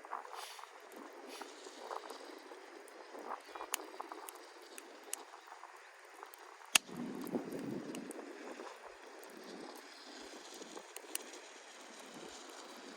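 Softwood campfire crackling, with scattered small pops and one sharp loud pop about seven seconds in. Wind gusts rush across the microphone after that pop.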